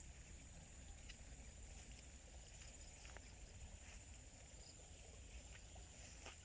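Faint countryside ambience: a steady high-pitched insect drone, with a few faint scattered ticks and a low rumble beneath.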